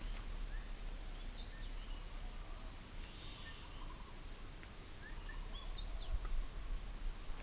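Outdoor ambience: a low rumble of wind on the microphone, scattered short bird chirps, and a steady high-pitched whine.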